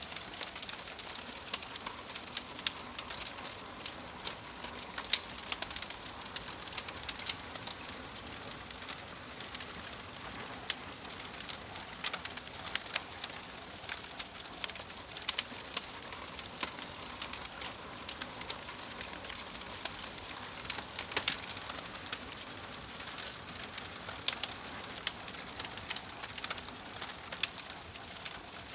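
Wood fire crackling in a fireplace: frequent irregular sharp pops and snaps over a steady soft hiss.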